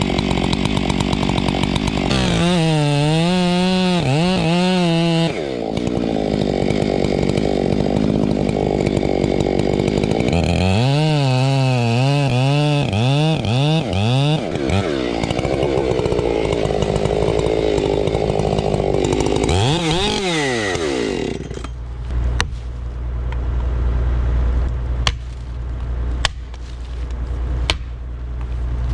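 Chainsaw cutting into a large tree trunk, the engine speed rising and dipping repeatedly as the bar works through the wood. The saw stops about 21 seconds in, leaving a low rumble broken by a few sharp cracks.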